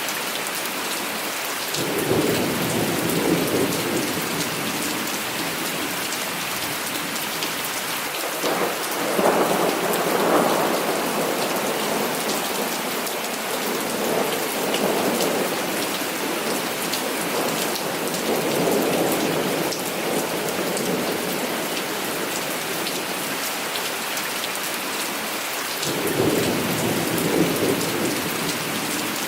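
Heavy rain falling steadily, with thunder rumbling several times: a roll about two seconds in, a longer stretch of rumbling from about eight seconds through the middle, and another roll near the end.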